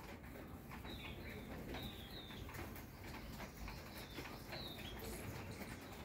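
Small birds at hanging seed feeders chirping: about six short, high chirps, some in quick pairs, over faint scattered clicks.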